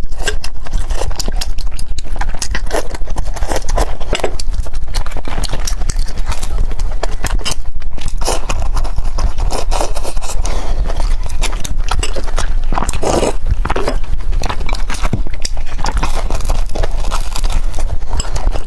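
A person eating close to the microphone: chewing with dense, irregular wet mouth clicks and smacks, over a steady low hum.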